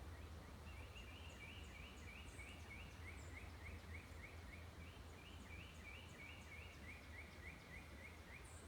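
A songbird singing a long, rapid run of short repeated notes, about five a second, shifting between a higher and a lower pitch, faint over a steady low hum.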